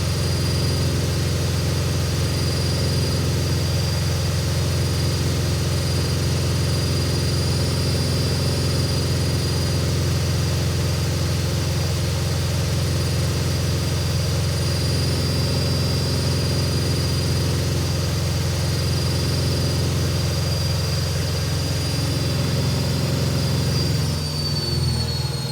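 Hoover Ecologic Computer Washer 1300 washing machine on its maximum spin, drum and motor running at high speed with a steady hum and a high motor whine. Near the end the whine starts to fall in pitch as the spin begins to slow down.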